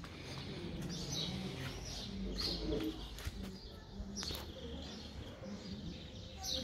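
Small birds chirping: several short, high calls that fall in pitch, spaced irregularly a second or two apart, over a low steady street background.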